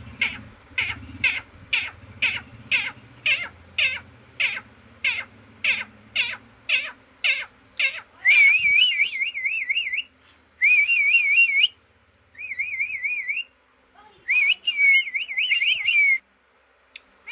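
Green parrot calling: a run of short, sharp calls repeated about two a second, then four bursts of warbling, wavering whistles.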